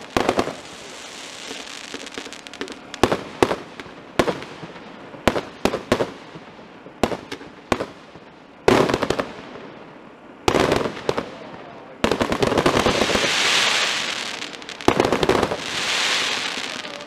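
Aerial fireworks display: sharp shell bursts going off at irregular intervals, the loudest about nine seconds in. From about twelve seconds there is a long hissing crackle of sparks that swells twice.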